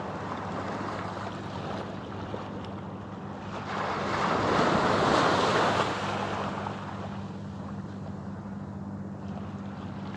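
Waves washing against the shore, one surge building louder about four seconds in, with wind buffeting the microphone.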